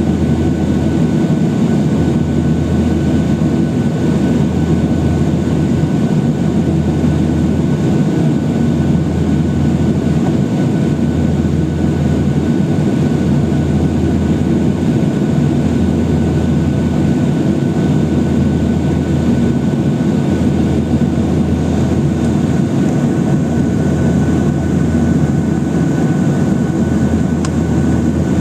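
Cabin noise in a Boeing 737-800: the CFM56 jet engines running steadily, with a low rumble and a thin steady whine, and no rise or fall in level.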